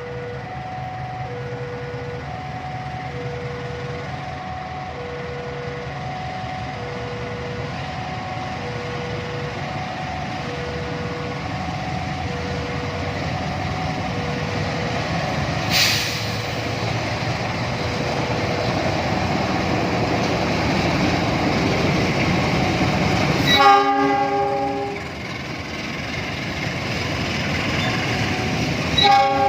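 Railway level-crossing warning alarm sounding in two alternating tones about once a second while an approaching train's rumble grows louder. The locomotive's horn sounds loudly about 23 seconds in, and again briefly near the end, as the train passes.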